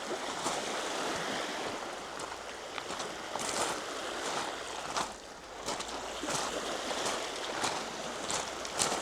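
Walking footsteps on a trail, a crunching step about every two-thirds of a second, over a steady rush of lake waves and wind.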